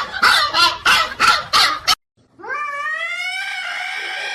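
A dog barking rapidly, about three or four barks a second. It breaks off abruptly after about two seconds and is followed by one long, drawn-out animal cry that rises in pitch, holds and then fades.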